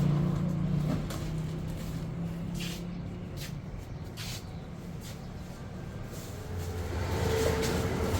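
A motor vehicle's engine running with a steady low hum, with a few short hissing or rattling sounds in the middle. A different, lower engine hum rises in near the end.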